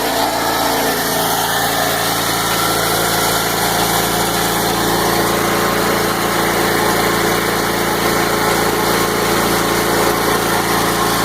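Champion portable generator, converted to tri-fuel and fed on propane, running steadily with an even hum.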